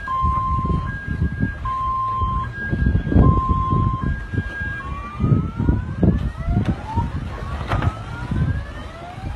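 A siren alternating between a low and a high tone, each held under a second, then switching about halfway through to repeated rising sweeps that overlap, over a rumbling low noise.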